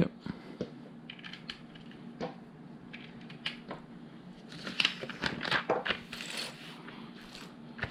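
Small plastic LEGO pieces clicking and clattering as they are handled, with scattered single clicks and a busier clatter of pieces around five to six seconds in.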